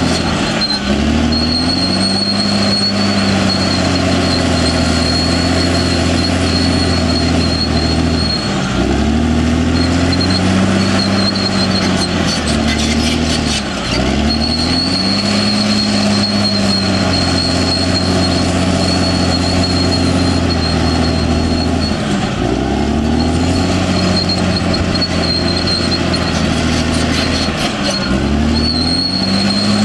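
Caterpillar D6R XL bulldozer's diesel engine running hard while pushing earth, its pitch sagging briefly and recovering about five times. A thin high whine comes and goes over it.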